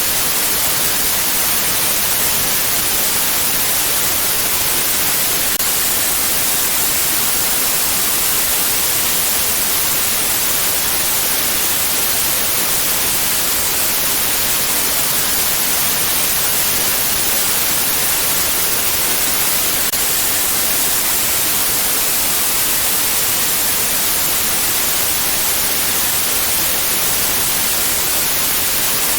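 Steady white noise: a constant, even hiss, strongest in the treble, with no change in level or pitch.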